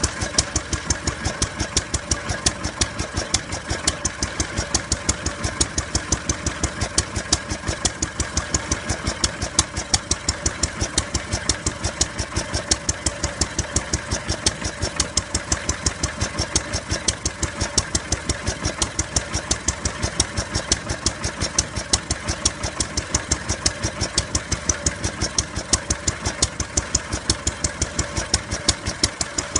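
Ruston & Hornsby Class PT stationary engine running steadily, a quick, even beat of firing strokes that keeps up without a break.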